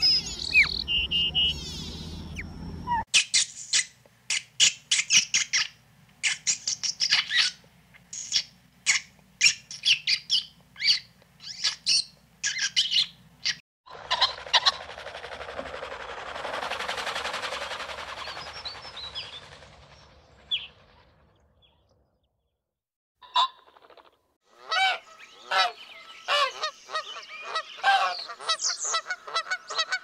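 Birds calling: long runs of short, sharp calls repeated a few times a second, broken in the middle by several seconds of rushing noise, then more quick calls after a brief silence.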